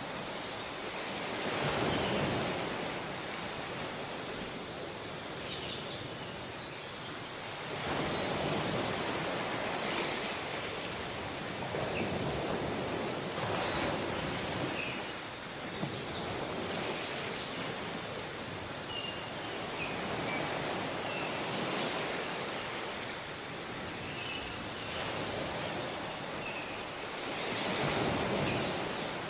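Surf on a tropical beach: waves breaking and washing up every few seconds, swelling and fading. Short high chirps, likely birds, come now and then.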